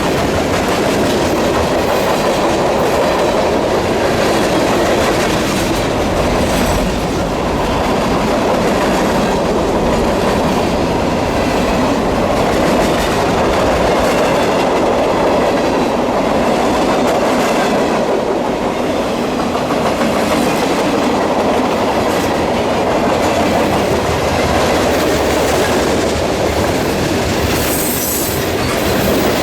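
Freight train cars rolling past with a steady, loud clickety-clack of wheels over the rail joints.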